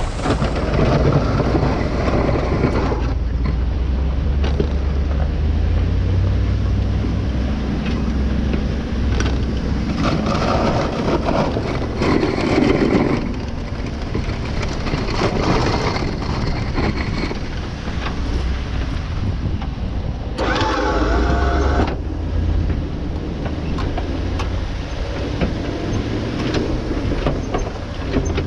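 Motor vehicle running, with a steady low engine rumble and some louder, noisier stretches.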